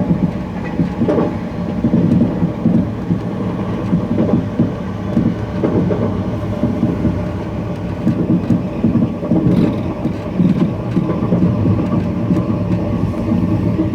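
High-speed TGV train running along the track, a steady heavy rumble with uneven rail clatter.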